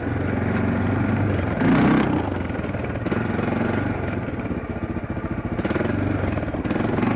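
Dirt bike engine running under way, its pitch rising and falling with the throttle. There is a brief loud rush of noise a little under two seconds in.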